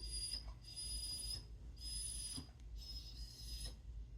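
Australian cattle dog whining in a series of thin, high-pitched whines, about four or five short ones each under a second, at a dog walking past outside.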